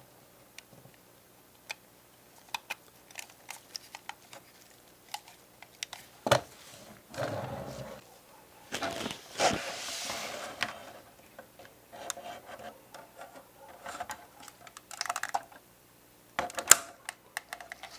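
Scattered light clicks and taps of small model-truck parts being handled on a workbench, with two short scraping or rustling stretches in the middle.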